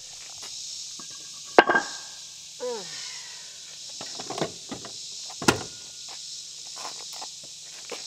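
Sharp knocks and clunks, the loudest about a second and a half in and another about five and a half seconds in, with a short falling squeak in between, over a steady high insect drone.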